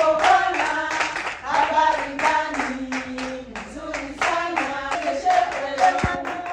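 Voices singing a song together, accompanied by steady, rhythmic hand-clapping.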